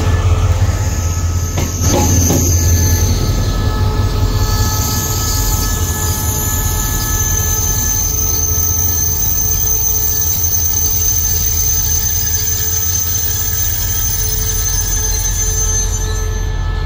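Diesel-hauled train passing close on the rails: a heavy low engine drone and wheel noise, loudest for the first three seconds or so and then settling to a steady run. Thin, steady high-pitched wheel squeal sounds over it throughout.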